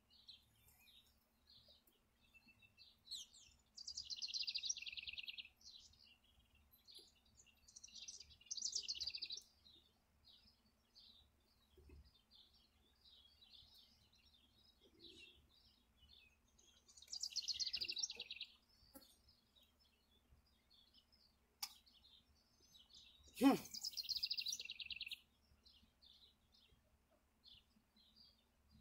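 A songbird singing a short trilled phrase four times, several seconds apart, with faint chirps in between. One sharp knock just before the last phrase.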